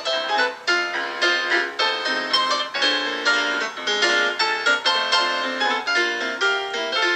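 Piano music: notes and chords struck at an even, moderate pace, with no singing.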